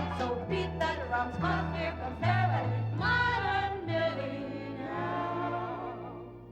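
Live orchestral accompaniment with women's voices singing together, the music dying away near the end.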